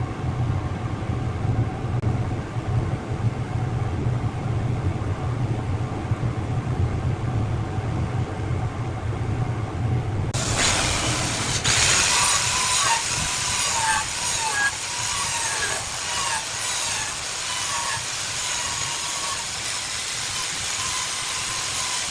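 Wood lathe running with a steady low hum. About ten seconds in, a loud hiss with a wavering whine suddenly takes over as the wood is worked on the spinning lathe, and the low hum fades.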